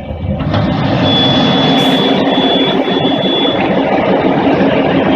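Sleeve-cleaning machine running loudly and steadily, starting up about half a second in, with a thin high whine through the middle.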